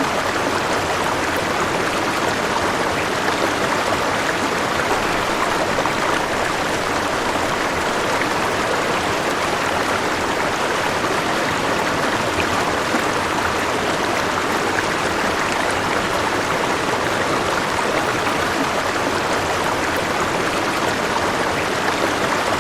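River water flowing: a steady, even rush without breaks.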